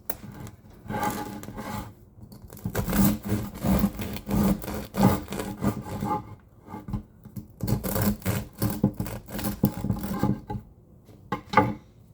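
Bread knife sawing back and forth through the crust of a freshly baked sourdough loaf, in several runs of rasping strokes with a couple of sharper strokes near the end.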